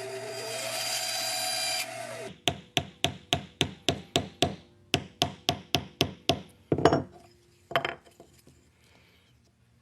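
A power tool runs for about two seconds and stops. Then comes a fast, even run of about fifteen hammer taps on wood, about four a second, followed by two heavier knocks.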